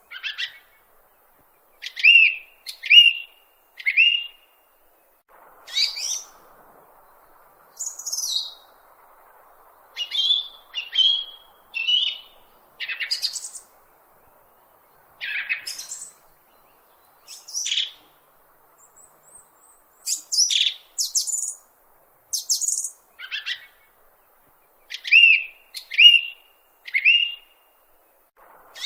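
A bird chirping in a long series of short, separate notes, roughly one a second: some sweep sharply down from high, others are a repeated lower chirp that comes in quick groups of three.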